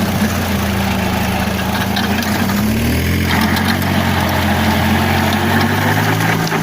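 Force Orchard tractor's diesel engine running steadily while working a mini rotavator; about three seconds in, the engine note shifts and a harsher, noisier sound grows louder.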